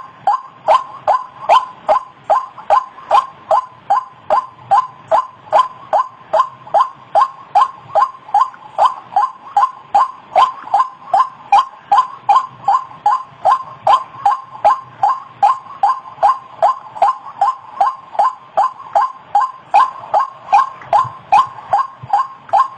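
White-breasted waterhen (ruak-ruak) calling: a steady, unbroken string of short, harsh notes repeated about two to three times a second, each dipping slightly in pitch.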